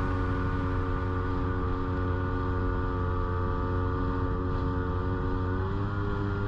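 Jet ski engine running steadily at speed, its pitch stepping up slightly near the end.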